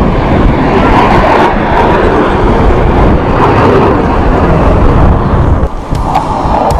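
Loud, steady jet roar from a Blue Angels F/A-18 Hornet flying past, dipping briefly near the end.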